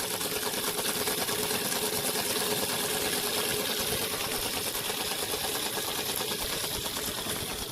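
Cheap toy RC car's small electric motor whirring steadily as the car drives and spins its wheels through mud, with a steady whine.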